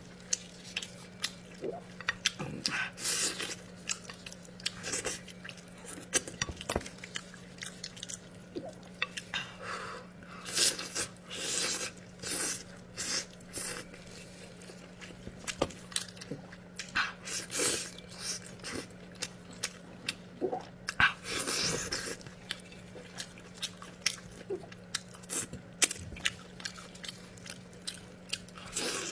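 A person chewing and biting food close to the microphone, in irregular bites and mouth noises, over a steady low hum.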